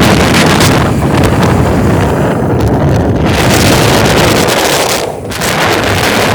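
Wind buffeting the microphone of a moving truck, a loud rough rush with road and engine noise beneath it, easing briefly about five seconds in.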